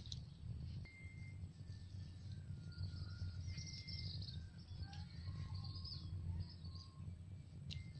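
Birds calling outdoors: short, level whistled notes and runs of high chirps, over a low steady rumble.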